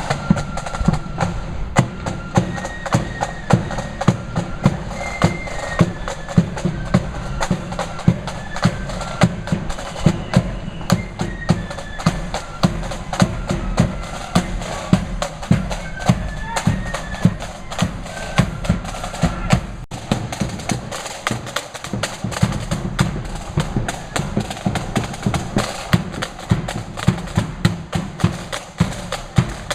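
Marching flute band playing a tune, the flutes carrying a stepping melody over regular bass and snare drum beats. After a short break about two-thirds of the way through, the drums carry on while the flute melody is less clear.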